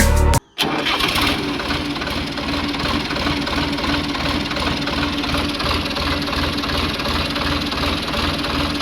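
An engine idling steadily with an even, rhythmic beat, starting just after a short burst of music cuts off.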